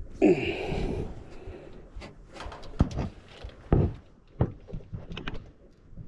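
Workshop handling noises: a creaking scrape that falls in pitch near the start, then a series of sharp knocks and clicks of metal tools and parts being handled.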